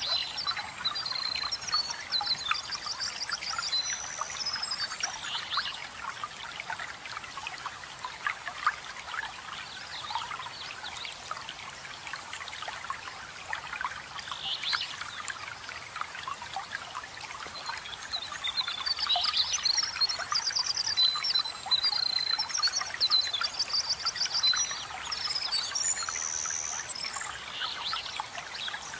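Running water trickling and splashing steadily, as from a small waterfall, with songbirds singing quick, high chirping phrases over it in two spells, at the start and again for several seconds past the middle.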